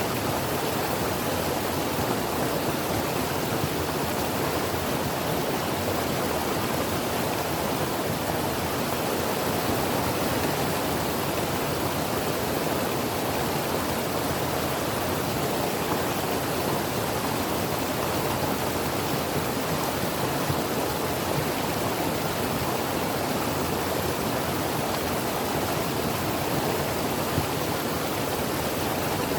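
A creek flowing steadily, an even rushing of water over stones.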